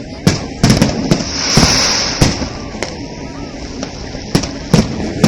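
Fireworks display going off: a string of loud, sharp bangs at irregular intervals, with a burst of crackling hiss about a second and a half in.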